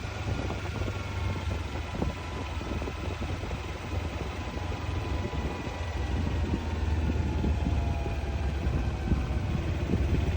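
Motorcycle engine running under way, with a steady low rumble beneath it and a faint engine note that drifts slowly lower in pitch, getting a little louder toward the end.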